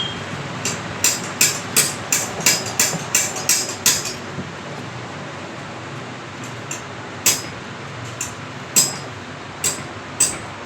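Sharp metallic taps of a hammer on metal during motorcycle engine work, about three a second for a few seconds, then scattered single taps, over a steady background noise.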